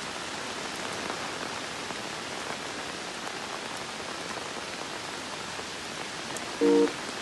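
Heavy rain falling steadily, an even hiss with no let-up. A short musical chord sounds near the end.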